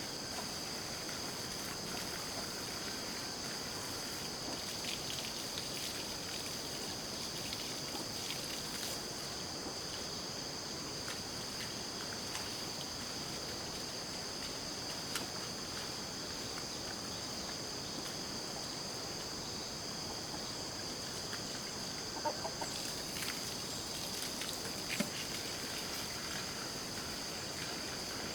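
A steady, high-pitched insect drone, with chickens clucking now and then.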